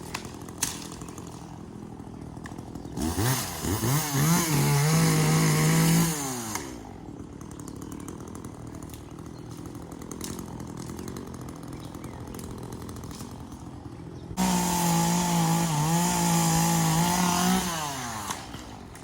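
Gas chainsaw idling, then throttled up to full speed twice. Each burst lasts about three seconds and the pitch wavers slightly while held. It drops back to idle after each.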